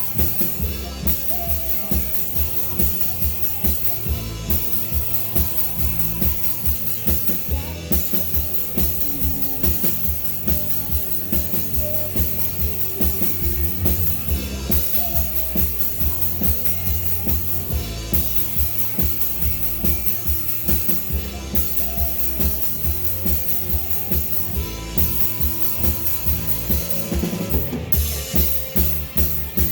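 A live rock band playing a song: a drum kit keeps a steady beat over bass and guitar, with quicker drumming near the end.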